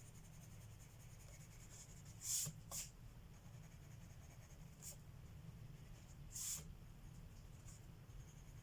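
Coloured pencil scratching on paper in a few short strokes: two close together about two seconds in, then single strokes later, over a faint steady low hum.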